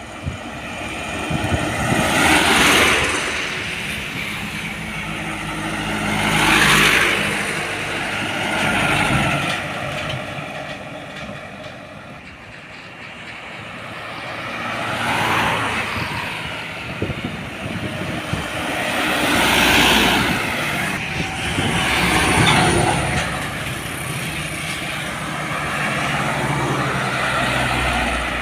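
Road traffic with trucks driving past one after another: about six pass-bys, each swelling and fading as engine and tyre noise rise and fall away.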